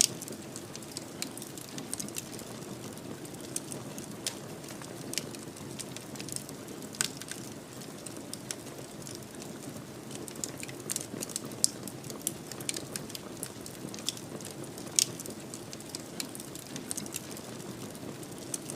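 Wood fire in a fireplace crackling: irregular sharp pops and snaps over a steady low rush of burning. A couple of louder pops come past the middle.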